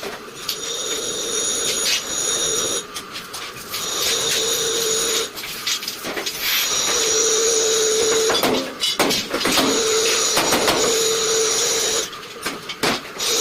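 Electric arc welding on sheet metal: about five short weld runs, each a steady hissing crackle lasting one to two seconds with a high whine, separated by brief breaks.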